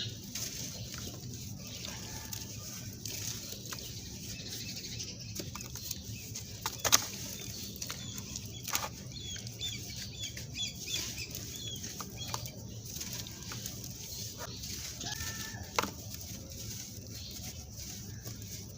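Dry sand-cement clumps crumbling, with scattered sharp cracks and snaps, three of them louder than the rest, over a faint steady background.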